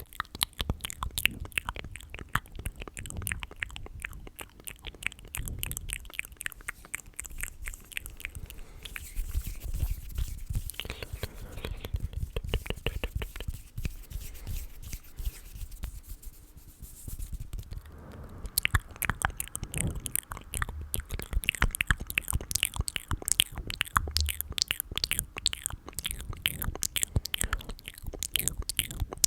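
Close-miked ASMR mouth and hand sounds: a rapid, dense run of wet mouth clicks and smacks, with a softer, quieter stretch about two-thirds of the way through.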